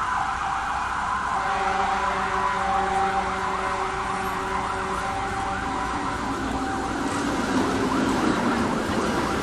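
Fire engine sirens sounding together: a two-tone hi-lo siren at the start, then a fast warbling siren that rises and falls several times a second. A steady, lower chord of held tones sounds for about four seconds from about a second and a half in.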